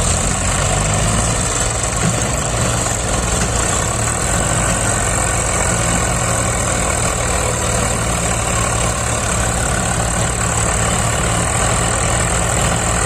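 Heavy diesel engine of farm machinery running steadily at an even pace, without revving.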